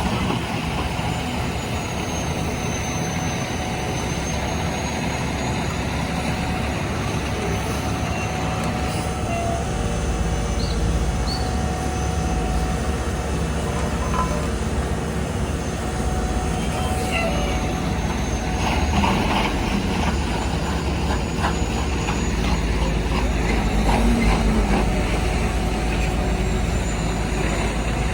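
Heavy diesel paving machinery running steadily, a continuous engine rumble whose low end deepens about ten seconds in.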